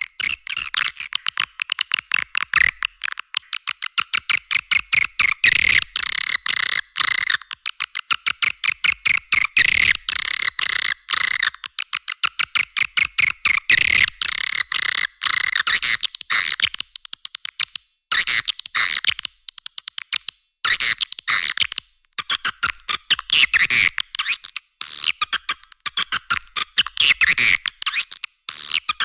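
Swiftlet lure call track: dense, rapid chattering clicks and twitters of edible-nest swiftlets, played as a call to draw the birds into a swiftlet house. The sound is thin, with no low end, and breaks off briefly a few times in the second half.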